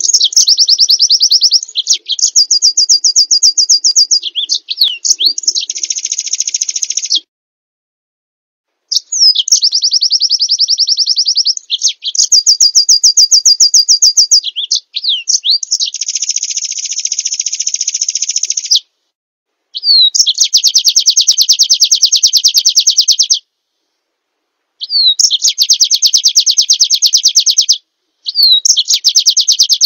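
Recorded white-eye (pleci) song: loud bouts of fast, high trills and rapid repeated chattering notes, each lasting a few seconds, broken by short dead-silent gaps where the recording is edited together.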